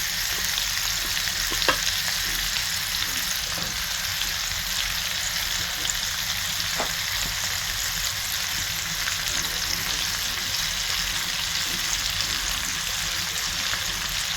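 Chicken thighs and freshly added onions frying in bacon grease in a pan: a steady sizzle with two light clicks.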